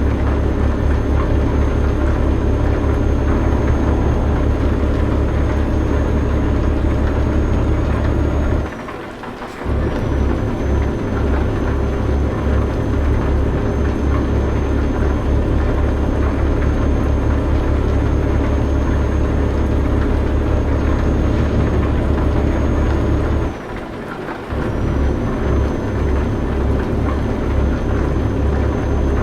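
Truck engine and road noise, a steady low rumbling drone with a faint high whine. The sound dips briefly twice, about nine seconds in and again near twenty-four seconds, then comes back.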